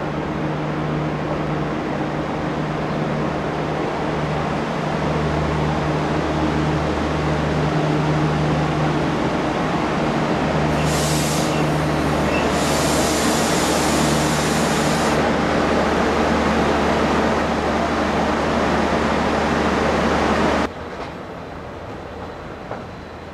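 A multiple-unit passenger train drawing in along the platform, its running noise steady and growing louder, with low hums throughout. A high hiss sounds for a few seconds about halfway through. The train sound cuts off suddenly near the end, leaving a much quieter background.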